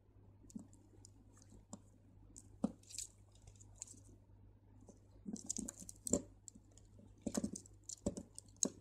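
Small crystal beads clicking and bead line rustling as they are handled and threaded by hand: faint, irregular ticks and brief crackly rustles, a few sharper clicks among them.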